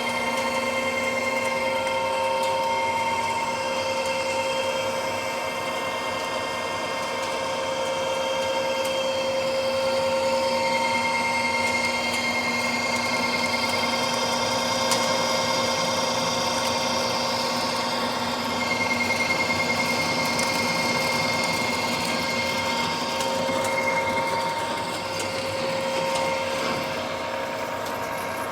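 Precision Matthews lathe running through a facing cut on a pipe flange: a steady drive whine made of several held tones over the hiss of the tool cutting.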